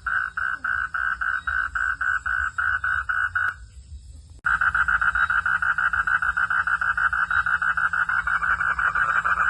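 A frog calling in a fast run of short, evenly spaced notes, about five a second. The call stops a little after three and a half seconds in, then starts again abruptly under a second later, somewhat faster.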